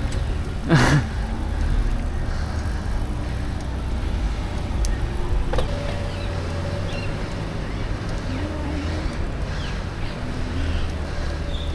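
City road traffic passing on the street, with a steady low rumble throughout. A brief loud sound rising in pitch occurs about a second in.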